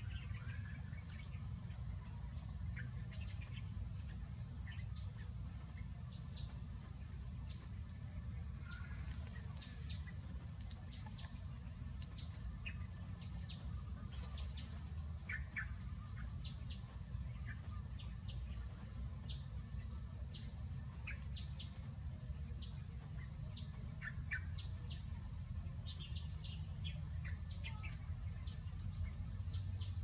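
Small birds chirping: many short, high chirps scattered irregularly, over a steady high-pitched hum and a low rumble.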